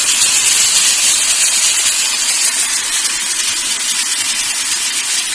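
Marinated boneless chicken frying in hot oil with garlic in a pan: a loud, steady sizzle.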